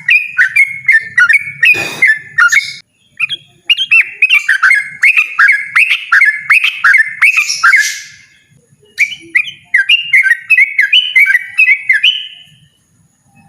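Yellow-vented bulbul singing a loud, rapid run of bubbly, sweeping notes in three bursts, pausing briefly about 3 and 8½ seconds in and stopping shortly before the end. A sharp click sounds about 2 seconds in.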